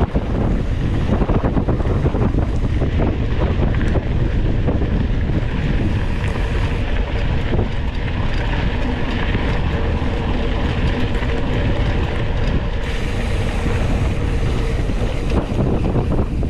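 Wind buffeting the microphone of an onboard camera on a moving mountain bike, with constant rattling and knocking from the bike over rough trail.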